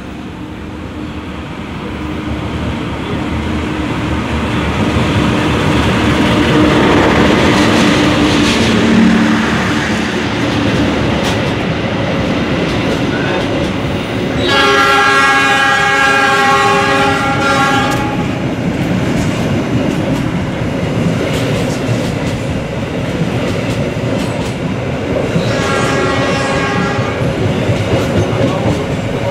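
Locomotive-hauled passenger train passing a station platform at speed without stopping: the diesel locomotive's engine grows louder as it approaches and passes over the first several seconds, then the coaches roll by with steady wheel noise and clacking over the rail joints. A train horn sounds for about three and a half seconds midway, and again more briefly and faintly near the end.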